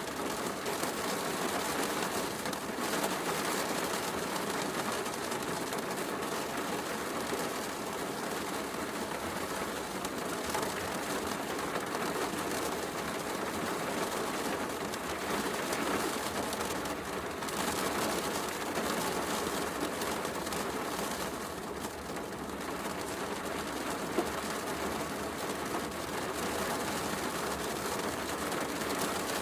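Steady heavy rain mixed with a softly crackling wood fire, with one louder pop from the fire late on.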